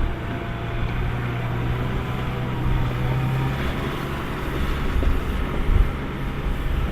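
John Deere 7230R tractor running steadily while pulling a potato harvester, with a constant engine hum and the dense noise of the harvester's machinery.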